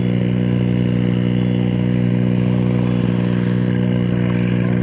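Gasoline engine of a 40% scale Cessna Bird Dog RC model airplane running steadily at a constant speed.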